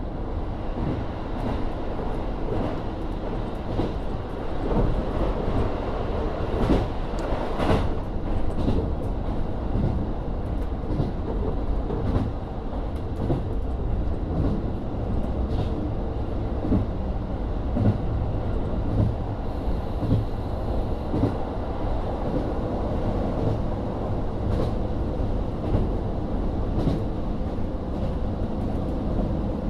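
KIHA40 diesel railcar running along the line, heard from inside the car: the steady hum of its DMF13HZB diesel engine and running gear, with irregular clicks and knocks from the wheels on the track, one sharper knock about eight seconds in.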